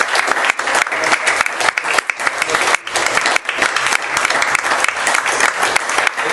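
Church congregation clapping and applauding steadily, a dense patter of many hands, in response to a call to give the Lord a hand.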